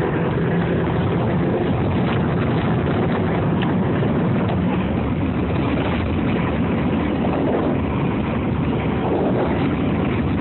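Strong tornado wind rushing past a car and buffeting the microphone, heard from inside with a window rolled down: a loud, steady rush of noise with no break.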